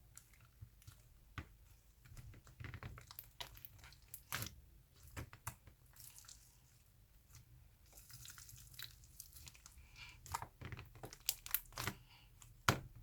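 Mixed slime being squished and pulled by hand, giving irregular sticky clicks, pops and crackles.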